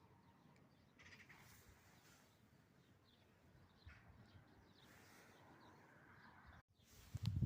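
Faint birds chirping now and then over a quiet outdoor background. Just before the end the sound drops out briefly, then a louder low rumble starts.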